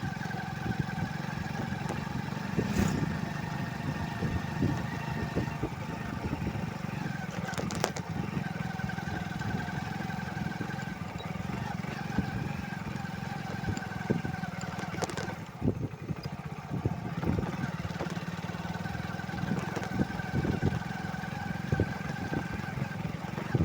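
Motorcycle engine running at a fairly steady speed, with scattered knocks and rattles.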